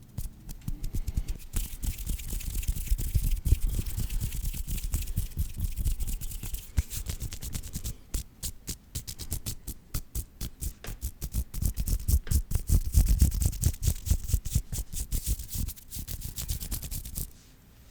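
Fast ASMR hand sounds close to a sensitive microphone: hands rubbing, tapping and swishing in a rapid, uneven patter of crackles with deep thuds from movement near the mic. The sounds stop shortly before the end.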